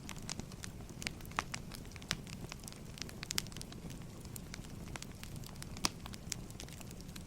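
Wood fire crackling: irregular sharp pops and snaps, a few louder than the rest, over a steady low rumble of burning logs.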